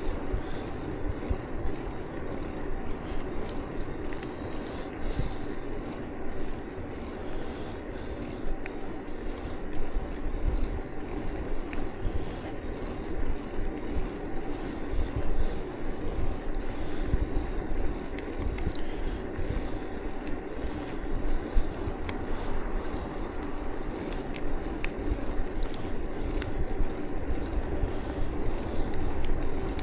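Bicycle ride heard close up: steady tyre and road noise with wind buffeting the action camera's microphone, and a few faint clicks and rattles from the bike.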